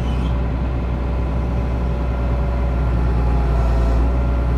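Excavator engine running steadily: a deep, even drone with a faint steady whine above it.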